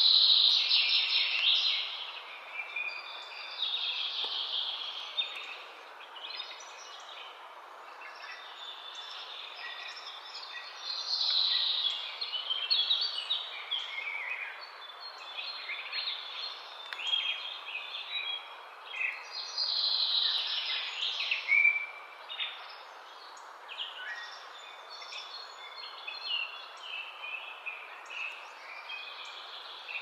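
Wild birds singing and calling in phrases that swell and fade every few seconds, over a steady outdoor hiss.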